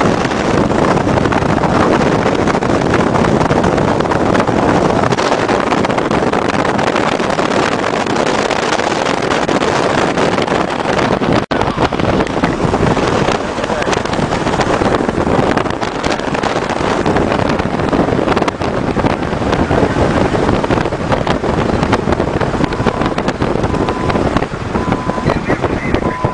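Strong wind buffeting the microphone, a loud steady rushing noise that cuts out for an instant about eleven seconds in. A faint, broken steady tone comes in near the end.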